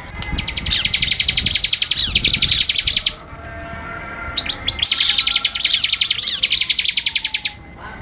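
Bar-winged prinia (ciblek) singing: two long, fast trills of high notes, each about three seconds, the second starting about four and a half seconds in.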